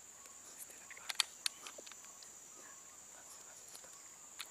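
Steady, high-pitched drone of crickets or other night insects, faint. A few sharp clicks about a second in and another near the end.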